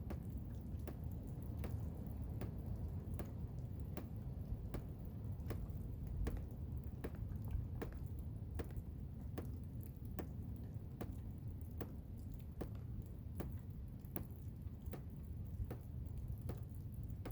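Blizzard wind rumbling low and steady, with sharp irregular ticks, about two or three a second, over it.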